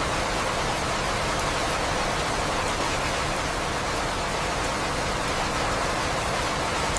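Steady, dense rain falling, with faint scattered drop ticks in it.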